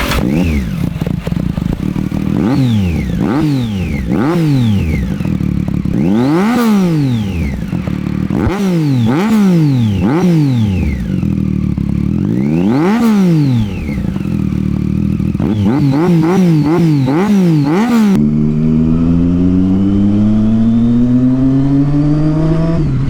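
Triumph Street Triple 675's inline-three with a Yoshimura exhaust, revved again and again, each rev climbing and falling back. From about 18 seconds in it pulls in one long steady climb in pitch, dipping briefly near the end.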